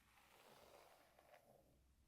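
A soft, faint stroke of a brush through hair, a quiet swishing with a few tiny clicks.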